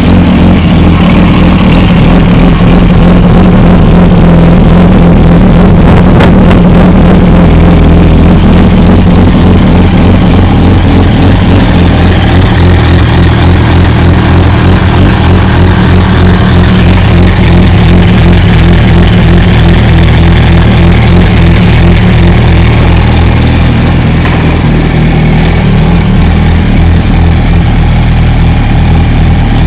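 Yamaha R1's inline-four engine breathing through a full Akrapovic exhaust, idling loud and steady just after starting.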